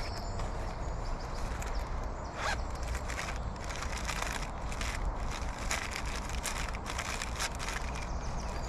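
Rustling and scattered light clicks of camp gear being handled, over a steady low rumble.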